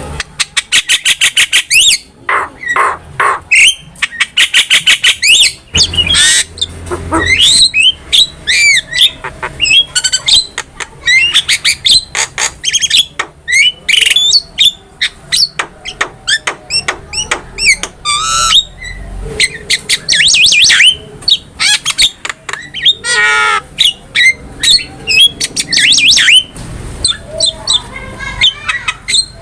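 Javan myna (jalak kebo) in full song: a nearly continuous, varied run of harsh squawks, fast rattling trills and short whistled notes.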